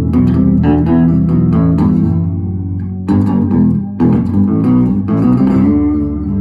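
A guitar played on its own, picking a phrase of low, ringing notes, with fresh strums about three and four seconds in.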